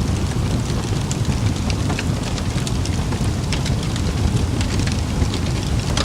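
Campfire burning, with frequent small crackles and pops over a steady low rumble.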